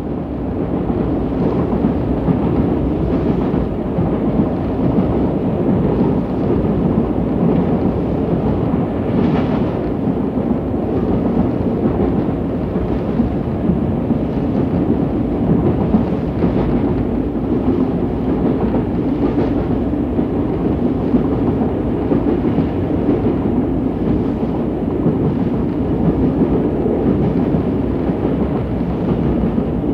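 Diesel train heard from outside, slowing down: a dense, steady rumble with a few brief sharper clanks along the way.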